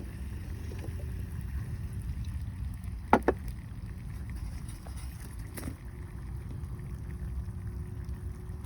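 Low rumbling outdoor background noise, with two sharp cracks close together about three seconds in and a fainter crack a little after the middle.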